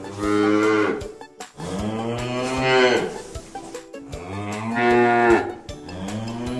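A cow mooing four times in long, drawn-out calls, each rising and then falling in pitch.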